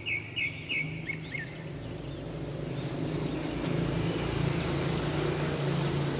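An engine running with a steady low hum that grows louder from about two seconds in. A bird chirps several times in quick succession at the start.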